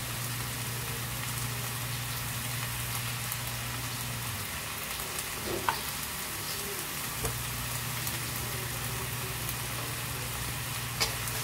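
Pork, okra and string beans sizzling in a wok: a steady frying hiss, over a low steady hum that drops away for a few seconds about four seconds in, with a couple of faint clicks.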